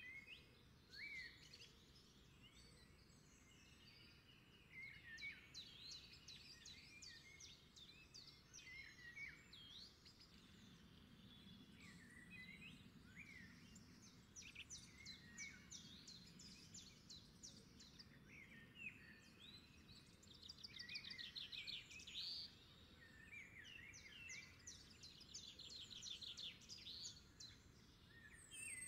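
A faint chorus of several birds singing and calling, with many short chirps, slurred notes and rapid trills.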